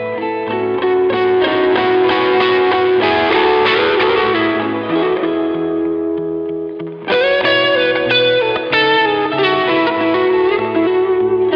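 Paul Reed Smith Modern Eagle III electric guitar played through an amp: picked notes and chords ringing out and fading, then a new chord struck about seven seconds in.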